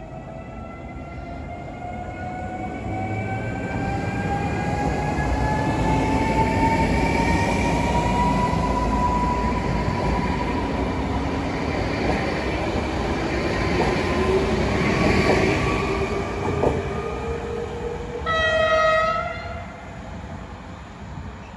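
Electric multiple unit passing close by, its motors giving a rising whine over the rumble of wheels on rail, which swells and then fades. Near the end a train horn sounds one blast of about a second.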